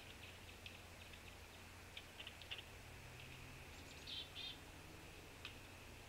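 Faint chirps and short call notes of songbirds, with a brief quick run of notes about four seconds in, over a low steady hum.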